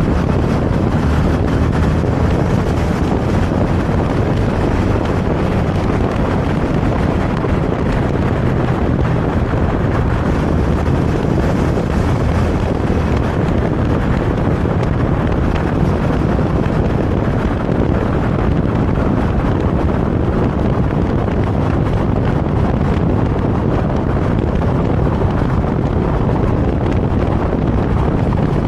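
Steady wind rushing over the microphone of a moving motorcycle, with the bike's engine and road noise underneath.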